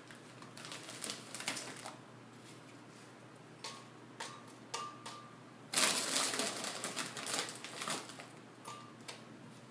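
Irregular clicking and crunching of dry wafer-type snacks and utensils being handled. A louder, denser stretch of crunchy rustling starts about six seconds in and lasts about two seconds.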